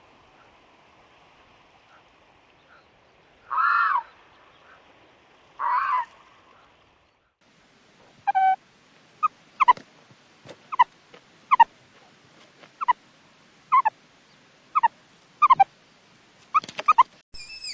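Two honking calls from a goose. Then a run of short, sharp, falling calls from another fowl, about one a second, some in quick pairs.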